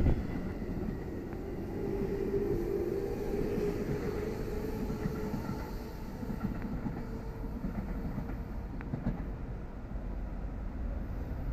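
Electric commuter train running along the adjacent platform track: loudest as it passes close at the start, then a steady rumble of wheels on rail with a humming motor tone that fades over the next few seconds.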